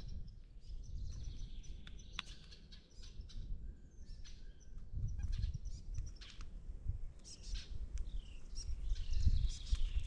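Wild songbirds chirping and calling, short high calls scattered throughout, over a low rumble.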